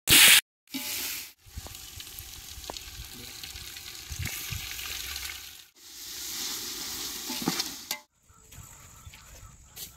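Food frying in hot oil in a cooking pot, sizzling and being stirred, in several short stretches that cut off and start again; the first, right at the start, is much the loudest.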